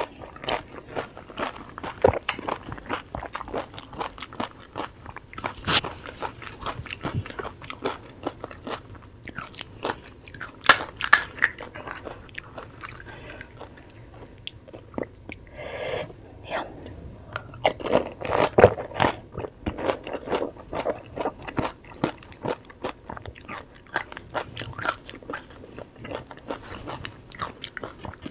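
Close-miked chewing of pani puri: crisp fried puri shells crackling and crunching between the teeth, with wet chewing in between. The crunches come in irregular runs, loudest about ten and about eighteen seconds in.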